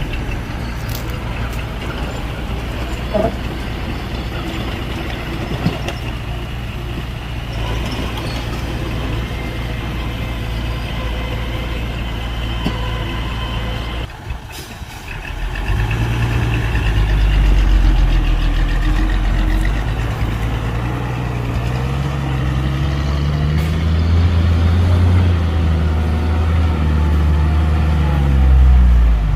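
Heavy diesel engine of earthmoving machinery running steadily. About fourteen seconds in the sound drops away briefly. Then a heavy engine comes up louder and revs, its pitch rising and falling.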